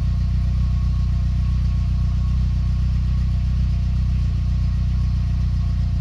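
BMW E30 M3's four-cylinder engine idling steadily during its warm-up after a cold start.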